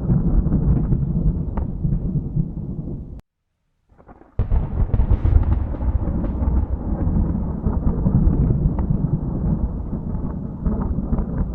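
Thunder rolling in a continuous low rumble with scattered crackles. About three seconds in it cuts out suddenly for about a second, then a fresh rumble starts abruptly and rolls on.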